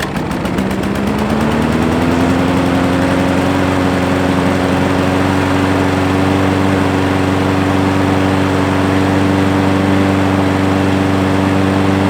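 Craftsman 6.5 self-propelled lawn mower's engine running: it comes up to speed over the first two seconds, rising in pitch, then holds a steady speed.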